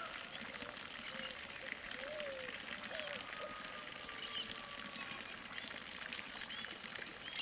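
Outdoor birdsong: small birds chirping on and off over a steady hiss, with a sharper double note about four seconds in and again at the end.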